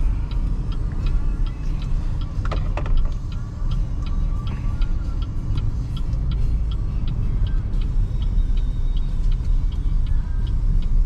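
Road and tyre rumble inside the cabin of a BYD Seagull electric car on the move, with no engine note. Over it a turn-signal indicator ticks evenly, a few ticks a second.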